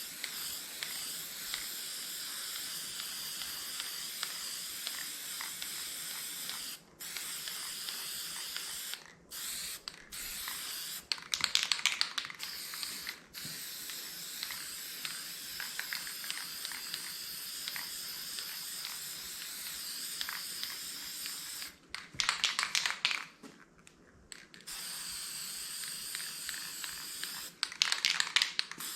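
Aerosol spray-paint can hissing steadily as paint is sprayed, stopping briefly a few times. Three times the can is shaken, and its mixing ball rattles in quick loud clicks: about a third of the way in, past two thirds, and near the end.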